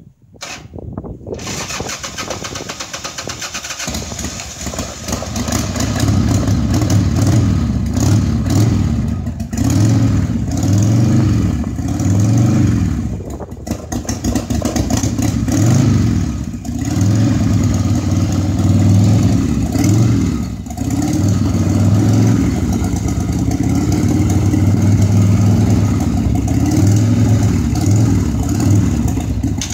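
1986 Harley-Davidson Sportster 1100's V-twin engine starting about a second and a half in, then running and being revved in repeated blips every couple of seconds before settling into a steadier run. It is running just after a carburettor rebuild.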